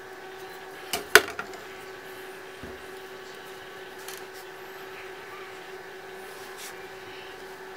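A few sharp clicks and knocks of hard objects, as of tools or laptop parts being handled and set down on a workbench, the loudest about a second in, with lighter taps later. Under them runs a steady electrical hum with a fixed tone.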